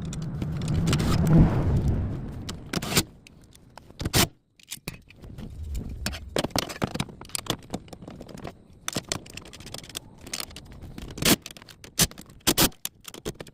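Car interior parts being fitted back by hand: scraping and rubbing for the first couple of seconds, then a string of sharp clicks and knocks.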